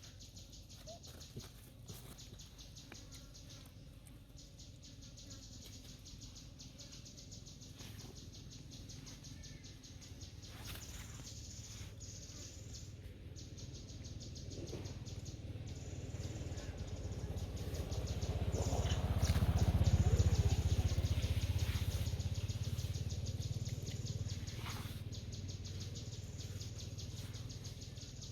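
A high, rapidly pulsing insect chorus runs steadily throughout. Under it a low rumble builds slowly, is loudest about two-thirds of the way in, then fades.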